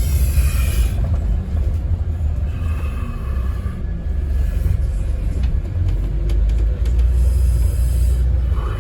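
Scania N230UD OmniCity double-decker bus running, heard from inside: a steady low engine rumble with road noise, and a higher whine that rises and fades a few times.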